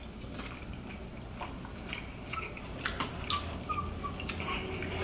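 Close mouth sounds of chewing fish and crab meat, with small clicks and scrapes of forks on plastic takeout trays.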